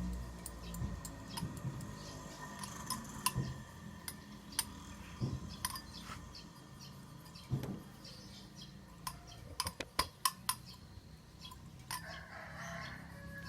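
Scattered light metallic clicks and taps of small parts and tools being handled, with a quick run of sharper clicks about ten seconds in, over a faint low hum.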